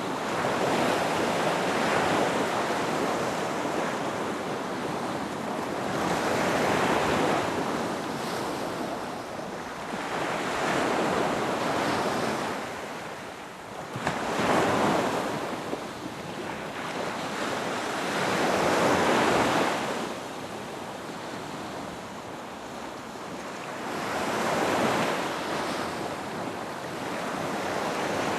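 Ocean waves breaking on a beach, about six times: each wash swells up, then hisses away over a few seconds.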